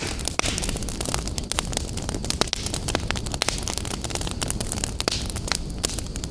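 Wood fire burning in a fireplace: a steady low rumble of flames with dense, irregular crackles and pops, and a brief hiss from the burning wood near the end.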